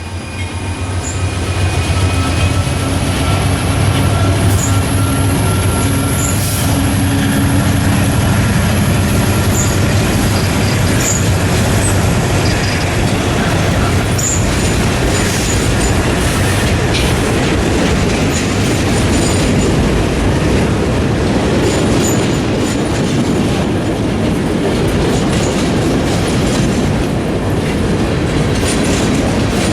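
A train passing close by. Diesel locomotive engines run low and steady for the first several seconds, then the cars roll past with continuous wheel noise, rail-joint clicks and brief high-pitched wheel squeals.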